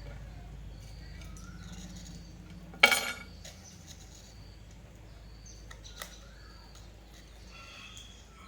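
A single loud metallic clatter with a brief ring, about three seconds in, like a metal part or tool set down hard during the pump repair, and a sharper click a few seconds later. Small birds chirp intermittently throughout, and a low hum stops just before the clatter.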